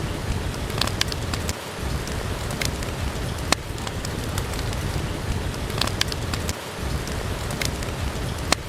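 Steady rain with a wood fire crackling, sharp pops and snaps scattered over the even hiss of the rain.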